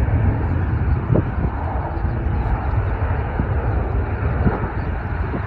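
Steady rumble of jet airliner noise at the airport, with no single event standing out.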